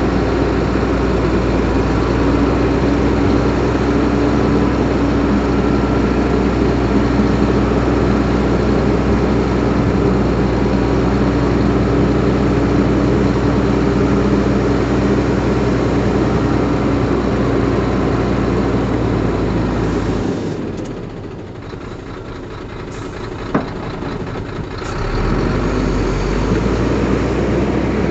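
Heavy diesel engine of earthmoving machinery running steadily. About twenty seconds in it eases off and goes quieter for a few seconds, with one sharp click, then picks up again.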